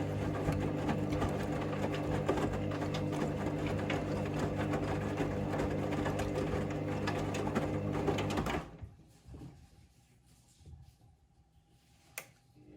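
Hoover Link washing machine running at the end of its final rinse, a steady mechanical hum with rattle that cuts off abruptly about two-thirds of the way through. A much quieter pause follows, with a single sharp click near the end, just as the machine starts up again.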